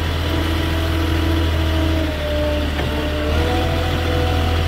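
Engine of a lumber delivery vehicle running steadily with a low hum, its pitch stepping down and back up a few times as it works.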